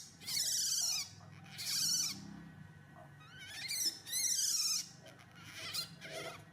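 Baby monkey crying for its mother, about four high-pitched wavering cries, some sweeping upward, with short pauses between them.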